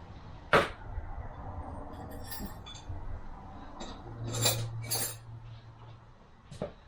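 Metal automatic-transmission parts clinking and knocking as they are handled: one sharp knock about half a second in, then scattered lighter clinks.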